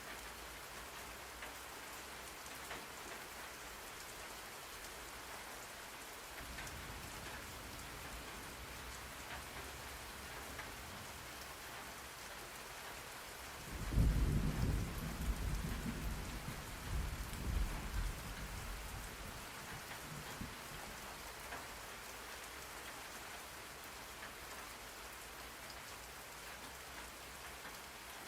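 Steady rain falling, with a low rumble of thunder. The thunder comes in about six seconds in, swells loudest about halfway through, and dies away a few seconds later.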